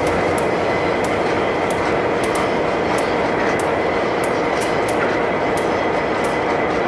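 Heavy freight train wagons rolling past at steady speed: a continuous loud rumble of wheels on rail, with a quick run of sharp clicks from the wheels over the rail joints.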